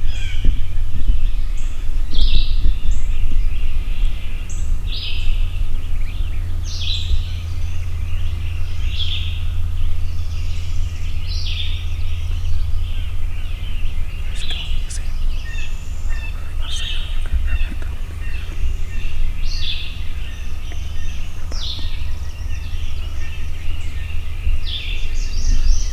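A songbird singing short high phrases over and over, about one every two seconds, over a loud steady low rumble.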